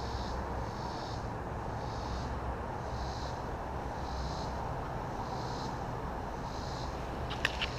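A steady hum of honeybees around the open hive, with a high pulsing sound in the background about once a second and a few sharp clicks near the end.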